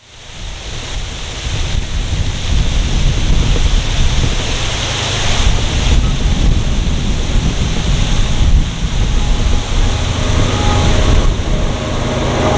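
Wind buffeting the microphone over the deep rumble of an approaching freight train led by CSX ES40DC and SD70AC diesel locomotives.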